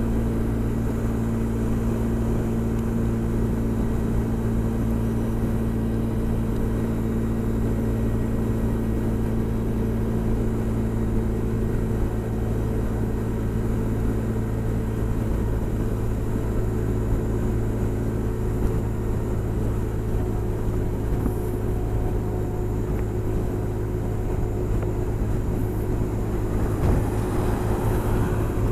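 Honda SH 300i scooter's single-cylinder engine running steadily at motorway cruising speed, about 115 km/h, with steady wind and road noise.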